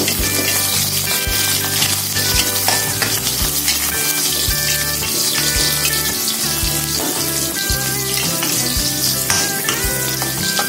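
Sliced onion and minced garlic sizzling in hot oil in a wok, turned with a metal spatula that knocks and scrapes against the pan now and then. Music plays softly underneath.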